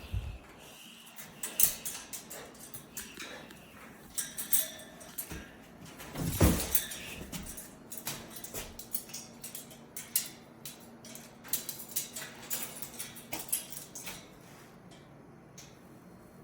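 Cockatoo gnawing with its beak: a run of irregular sharp clicks, cracks and crunches, with one louder knock about six seconds in, thinning out near the end.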